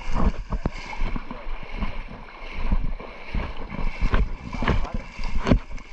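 Water splashing and irregular knocks against a small boat, with wind gusting on the microphone.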